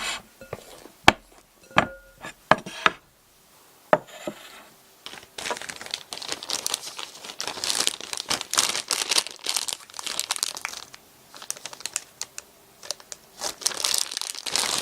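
A few sharp clicks in the first four seconds, then long stretches of crinkling and crumpling, like paper or wrapping being handled.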